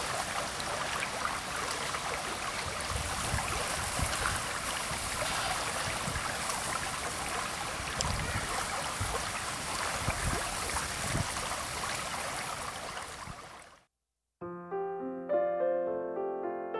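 A small creek's running water, an even rush with a few low thumps, fading out about fourteen seconds in. After a brief silence, gentle piano music starts near the end.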